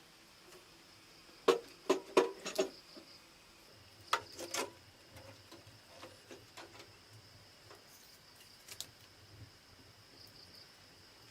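Steady high buzz of jungle insects, broken by a quick cluster of sharp knocks about a second and a half in and a shorter pair about four seconds in, with a few faint ticks after.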